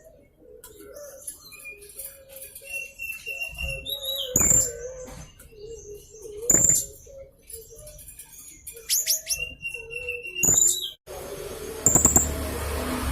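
Young blue-crowned hanging parrot (serindit) singing in a rapid run of high, squeaky chirps, short whistles and a few loud sharp calls, over a low wavering tone. Near the end the background turns to a steady hiss.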